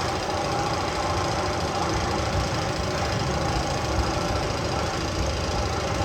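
Steady rough mechanical rattle and rumble, like a running engine, holding an even level.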